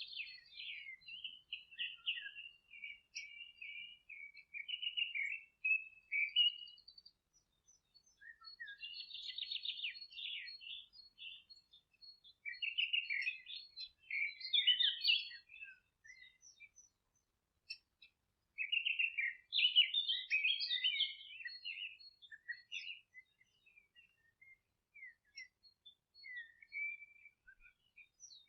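Songbirds singing in phrases of a few seconds with short pauses, a mix of trills and chirps. There is no background hum or wind.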